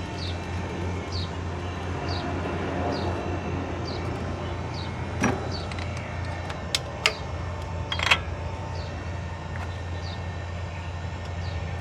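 Workshop background: a steady low hum with a faint, short, falling high chirp repeating about every half second. About halfway through come a few sharp metallic clicks and knocks, the loudest near the end of that stretch, typical of hand tools on an engine during a tappet adjustment.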